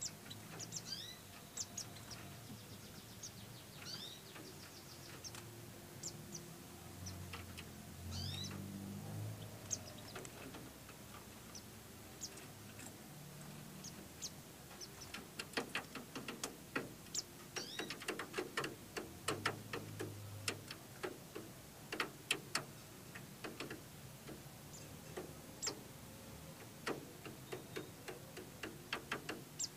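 White-eyes giving short, high chirps and sweeping calls, which turn into a quick run of sharp clicks and chirps about halfway through.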